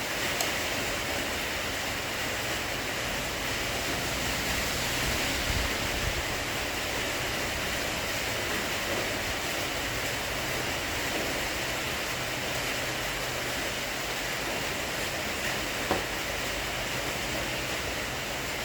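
Storm rain falling steadily: an even rushing hiss with no change, and a faint knock about 16 seconds in.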